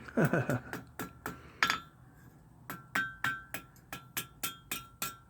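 Blacksmith's hammer striking hot iron on an anvil, about three ringing blows a second, drawing out a rat-tail taper on the end of the piece. The blows pause briefly near two seconds in, then carry on.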